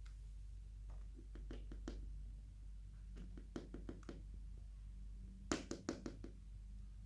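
Several light knocks and taps in three short clusters, the last the loudest, over a steady low hum.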